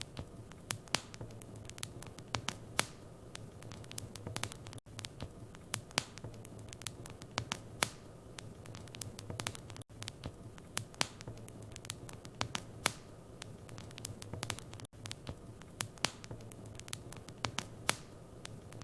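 Wood fire crackling in a fireplace: irregular sharp pops and snaps over a soft steady rush and low hum. A brief dropout comes about every five seconds.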